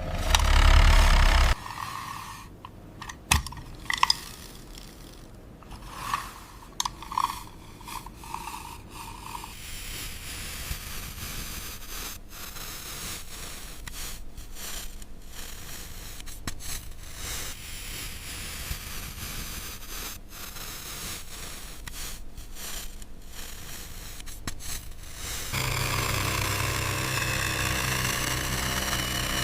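Toy construction vehicles working in sand: scraping with scattered small clicks and short high blips. An engine-like running sound plays in the first second or so and comes back steady for the last few seconds.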